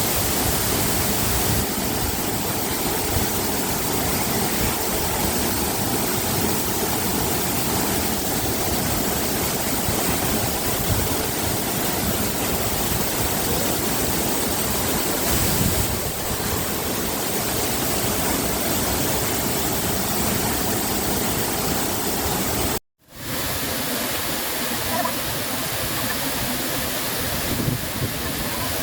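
A waterfall rushing with a loud, steady sound. About two thirds of the way through it cuts out for an instant, then comes back at much the same level.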